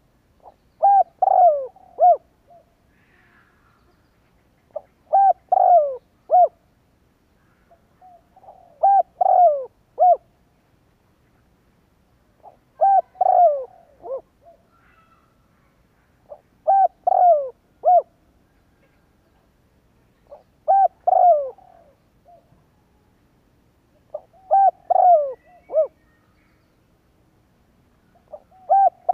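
Spotted dove cooing: a low phrase of a few short coos, the notes dipping in pitch, repeated at an even pace about every four seconds, eight times. It is the male's song used as a lure call to stir up wild doves.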